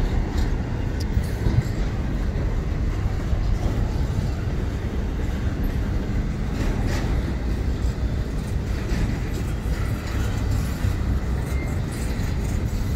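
Florida East Coast Railway container freight train rolling past close by: a steady low rumble of the cars on the rails, with a few faint clicks.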